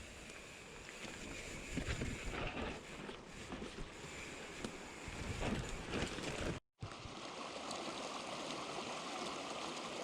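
Uneven rumbling wind noise on the microphone while riding. It breaks off suddenly at a cut about two-thirds of the way through and gives way to a creek flowing steadily.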